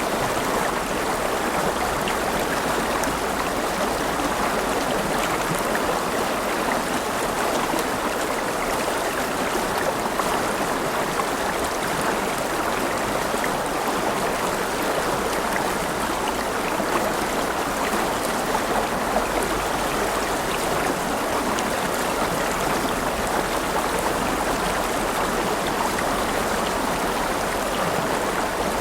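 A river or stream flowing steadily over rocks, a continuous rushing and babbling of water.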